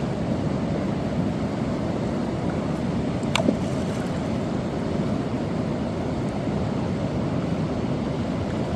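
River water rushing steadily. About three and a half seconds in there is one brief, sharp sound that falls quickly in pitch.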